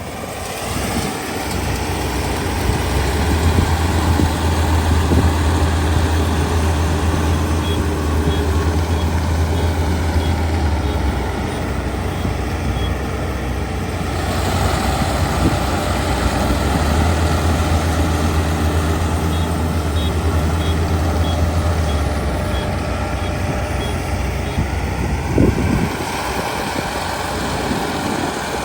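Kubota ER572 combine harvester's 72-horsepower engine and machinery running steadily, with a deep drone that swells twice. Two short runs of faint, evenly spaced high beeps sound over it.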